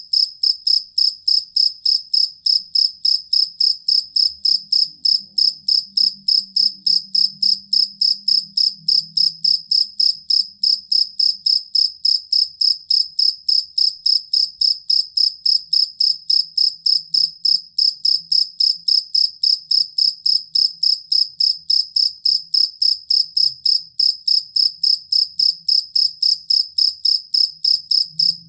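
Field cricket (jangkrik kalung) singing: a steady, even train of short, high-pitched chirps, about three a second, without a break.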